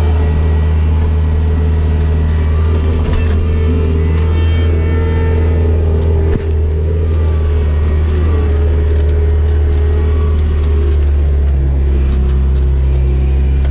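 Bobcat skid steer loader's diesel engine running steadily under load while pushing snow with a snow bucket. There is one short knock about six and a half seconds in, and the engine note changes near the end.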